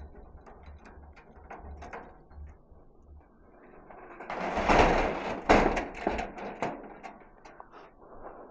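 Metal mechanism clicking and rattling, with a loud clattering stretch about four to six and a half seconds in.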